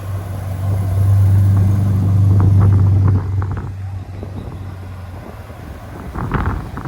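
A car engine running close by with a steady low note. It swells and then drops away about three seconds in, as a car passes or pulls away.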